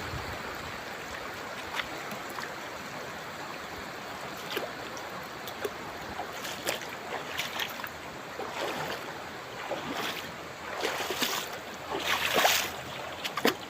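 Shallow river water running, with scattered splashes that come more often and louder near the end.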